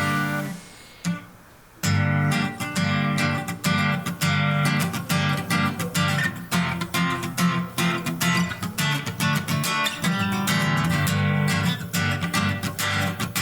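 Acoustic guitar strummed as the introduction to a song: a chord rings and fades, a single short stroke about a second in, then steady rhythmic strumming from about two seconds in.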